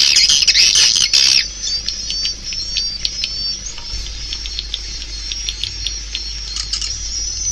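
Swiftlet calls of the kind played to lure swiftlets into a swiftlet house: a loud, dense burst of high chattering chirps for about the first second and a half, then scattered short high chirps and clicks.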